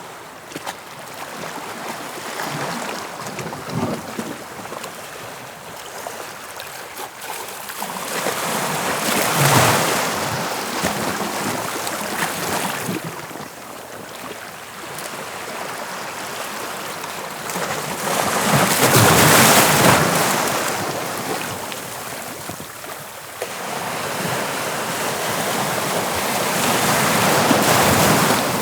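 Sea waves breaking and washing on the shore: a continuous hiss of surf that swells into a louder crash about every nine or ten seconds, three times in all.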